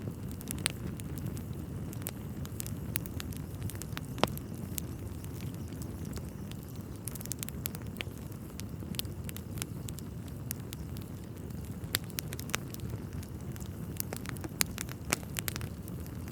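Wood fire burning in a fireplace: a steady low rumble of flames with irregular sharp crackles and pops from the logs, the loudest a little after four seconds and near twelve seconds.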